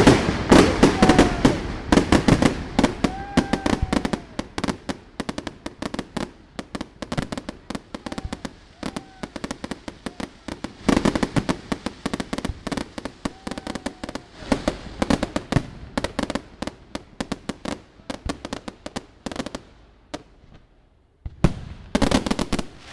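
Professional fireworks display: a rapid, dense barrage of sharp bangs and crackles from bursting aerial shells and ground-level effects. It thins out near the end, falls almost silent for a moment about 20 seconds in, then a fresh volley of bangs starts.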